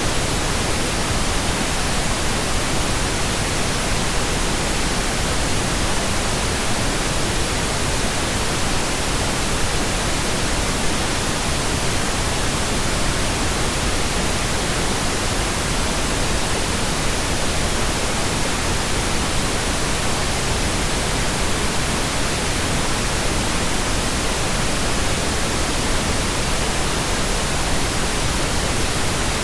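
Steady pink noise generated in Audacity: an even, unchanging hiss spread across all pitches, with no events or variation.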